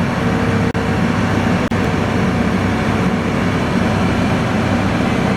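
Heavy equipment's engine running steadily with a low hum, cut by two very brief dropouts about a second apart.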